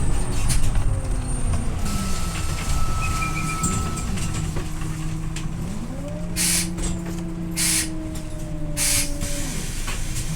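Scania OmniLink I bus heard from on board: the diesel engine and drivetrain running with a whine that rises and falls in pitch, and three short hisses of compressed air from the air brakes about a second apart in the second half.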